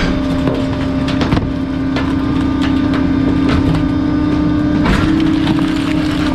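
Garbage truck compactor crushing bulky junk, with wood and other material cracking and snapping over the steady hum of the hydraulics. The hum steps up slightly in pitch about five seconds in.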